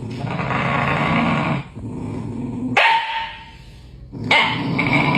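A dog growling at its own reflection in a mirror, in two long rough stretches, with one short sharp bark between them about three seconds in.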